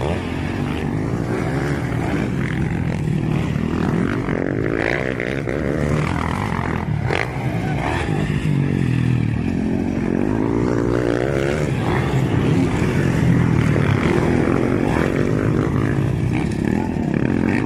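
Several motocross bike engines revving up and down as they race, their overlapping pitches rising and falling.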